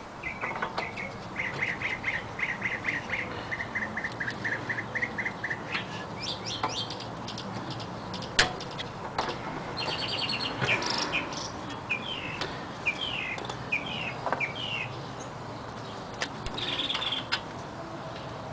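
Small birds chirping: a run of even, repeated chirps at about four a second, then short falling chirps later on. Over the birdsong come a few sharp metallic clicks from diagonal-cutter pliers working a cotter pin out of a tie rod end's castle nut, the loudest about eight seconds in.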